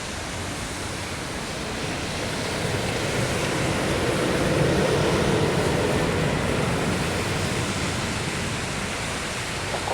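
Jet airliner's engine noise, a broad roar that swells to a peak about halfway through and then fades as the aircraft passes on the runway.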